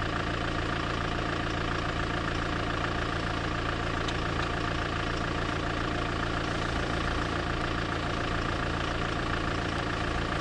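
Engine of an open vintage-style roadster running steadily at low revs, an even engine note that does not change as the car creeps forward.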